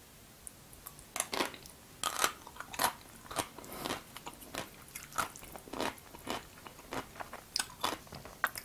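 Crunchy chewing of a slice of yellow pickled radish (danmuji), close to the microphone: a run of crisp crunches, about two a second, starting about a second in.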